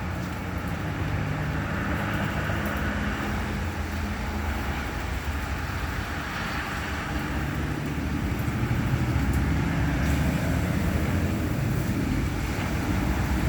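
Vehicle engines running steadily: a low hum under a continuous hiss.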